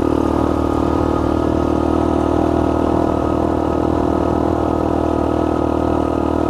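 Small 49 cc single-cylinder Honda 50R dirt bike engine running at a steady speed while ridden, its pitch holding level with no revving up or down.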